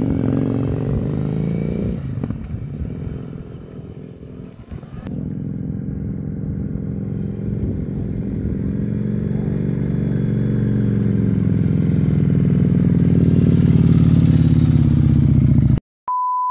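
Motorcycle engine running and pulling away, growing louder with its pitch slowly climbing as it accelerates through the second half. It cuts off suddenly near the end, followed by a short steady test-tone beep.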